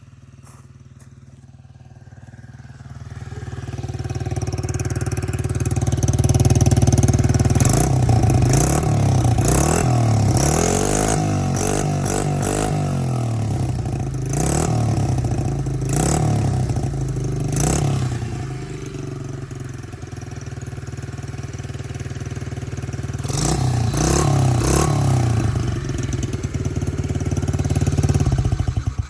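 Pit bike engine running through its stock, undrilled muffler, growing louder over the first few seconds and then revved up and down repeatedly. Cuts off suddenly at the end.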